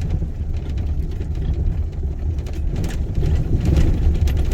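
Vehicle driving over a bumpy road, heard from inside the cabin: a steady low rumble of engine and tyres with small knocks and rattles, more of them near the end.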